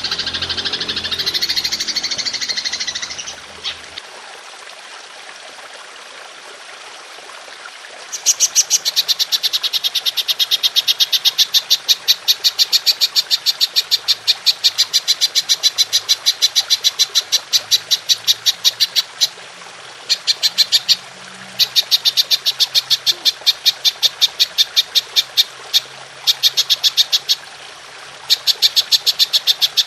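Golden grasshopper (belalang emas) calling in long runs of rapid, evenly spaced pulses, several a second, with a few short breaks; it starts about eight seconds in. The first few seconds hold a varied bird song, over a steady low hiss.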